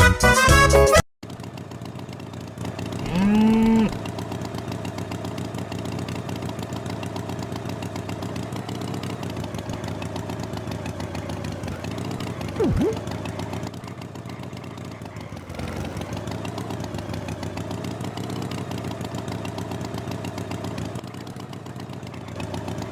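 Cartoon tractor engine sound effect running steadily with an even pulse, starting as a song cuts off about a second in. A short moo comes about three seconds in, and a brief sharp blip sounds about halfway through.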